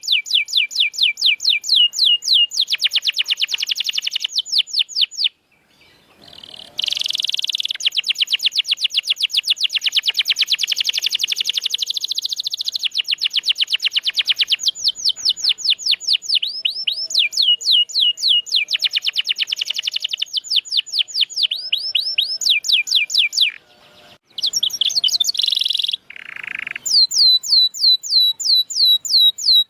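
Domestic canary singing: long rapid trills of repeated high, falling notes, about ten a second, broken by two brief pauses.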